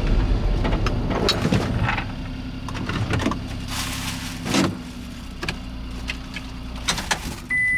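Car engine idling with a steady low hum and scattered clicks and knocks; near the end the engine hum stops and a steady high electronic beep from the car sounds.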